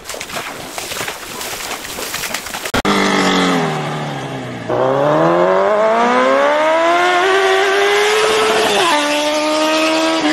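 Water splashing as a dog wades through a shallow creek, then a car engine revving loudly. Its pitch drops for about two seconds and then climbs steadily, as if accelerating through the gears.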